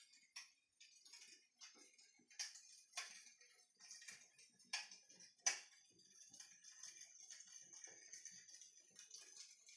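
Faint, irregular crackling pops and clicks from an electric fireplace's simulated wood-fire crackle, a few sharper pops standing out over a light hiss.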